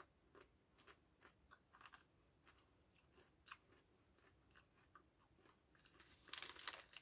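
Faint chewing of hand-cooked potato crisps: a string of small, irregular crunches, a few each second. Near the end comes a louder rustle of about half a second as the crisp packet is handled.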